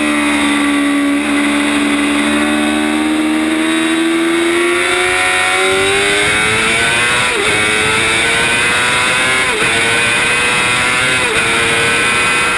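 Yamaha R6 inline-four race engine heard from on board, pulling hard with the revs climbing steadily. The pitch dips briefly three times in the second half as it shifts up, over a steady rush of wind on the bike.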